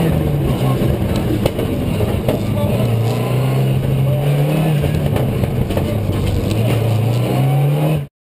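Rally car engine heard from inside the cabin under hard driving, its note rising and falling several times with the throttle. The sound cuts off suddenly near the end.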